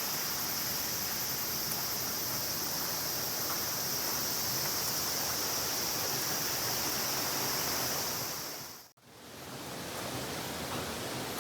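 Steady rushing of flowing water with a high, shrill insect chorus over it. About nine seconds in both fade out to a brief near-silence, and a duller outdoor hiss without the insects fades back in.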